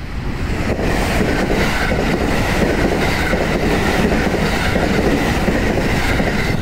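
A JR Central 313 series electric multiple unit, eight cars, passes close by at speed. Its running noise swells about a second in and holds loud, with wheels clicking over rail joints.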